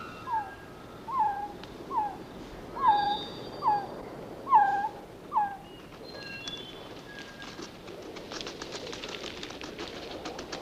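A bird calling in a series of about eight down-slurred whistled notes, each under a second apart, with fainter higher-pitched calls of other birds behind it. From about six seconds in, a run of rapid dry clicks takes over.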